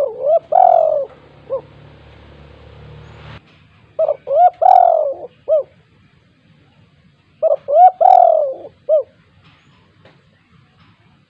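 Spotted dove (tekukur) cooing: three full phrases about three and a half seconds apart. Each phrase is a few short rising notes, a long loud coo, then a short closing note.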